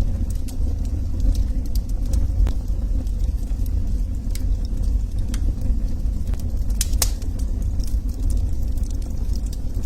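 Log fire burning in a fireplace: irregular crackles and sharp pops from the wood over a steady low rumble, with a quick cluster of pops about seven seconds in.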